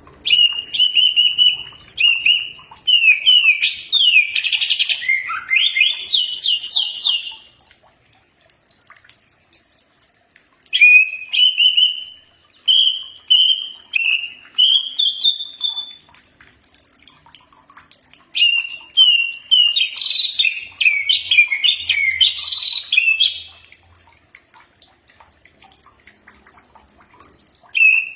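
Cucak ijo (green leafbird) singing in rapid chirps and sliding whistles: three long phrases of several seconds each, separated by short pauses, with another phrase starting at the end.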